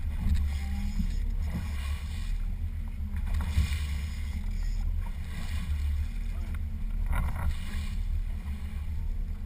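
Boat motor running with a steady low drone, with a hiss that swells and fades every second or two over it.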